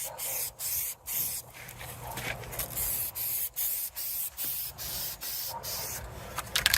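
Aerosol spray paint can hissing in short bursts, about two a second, then in longer passes as a light coat of paint is sprayed on. A few sharp clicks near the end.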